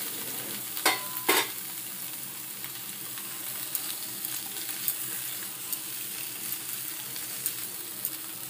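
Pointed gourd and potato pieces frying in masala in a nonstick kadai, sizzling steadily as a wooden spatula stirs them. There are two sharp knocks about a second in and small clicks throughout.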